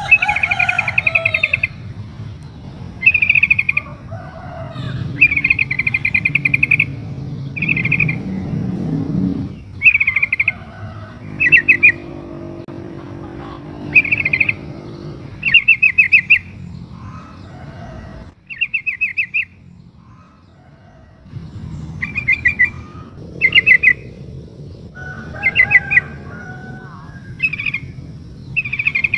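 Yellow-vented bulbul giving short bubbly chattering calls, one phrase every second or two with a brief pause midway, over a low background rumble; the uploader presents them as a female calling to a male.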